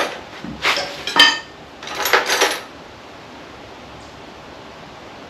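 Steel spanners clinking and clattering against each other and against metal: a handful of sharp clinks over the first two and a half seconds, one of them ringing briefly.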